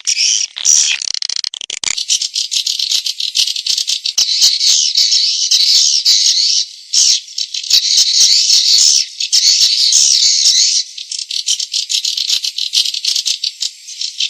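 Recorded swiftlet calls, a farmers' lure track: a dense, rapid stream of high twittering chirps and clicks with no low sound under it. It is played in swiftlet houses to draw the birds in to roost and nest.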